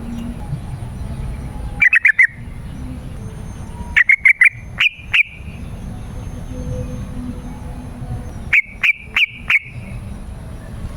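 Yellow-vented bulbul calling in three short bursts of quick, clipped notes: the first about two seconds in, the second at about four seconds and the third near the end. Under the calls runs a steady low rumble.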